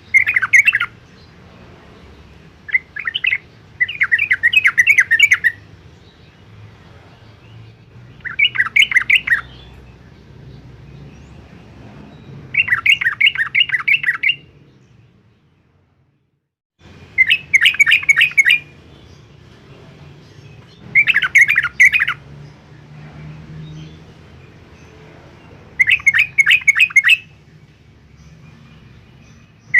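Yellow-vented bulbul singing: about eight short, rapid chattering phrases of quick notes, each lasting a second or so, repeated every few seconds. The sound cuts out briefly to silence about halfway through.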